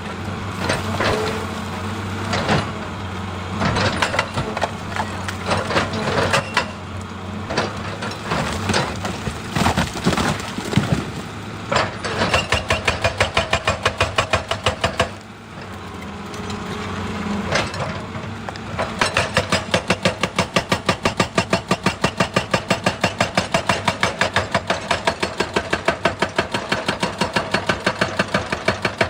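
Excavator working rock: its diesel engine runs steadily under irregular cracking and crunching of stone. About twelve seconds in, and again for the last third, there is fast, even pounding at about four blows a second.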